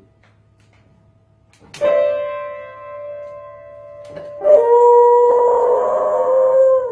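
Dog howling along to music with held instrument-like notes: a note is sounded about two seconds in and fades away, then from about four and a half seconds a long howl is held over a steady tone, bending down in pitch as it stops.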